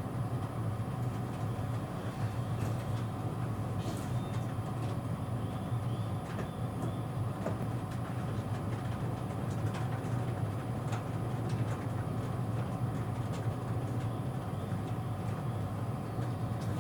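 Steady hum inside a car of a JR East E653 series electric train standing at a station, with a few faint clicks.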